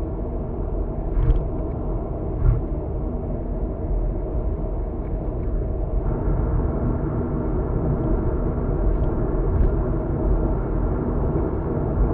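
Steady road and engine rumble from a car driving at speed, heard from inside the cabin. There are short thumps about a second in and two and a half seconds in, and fainter ones later.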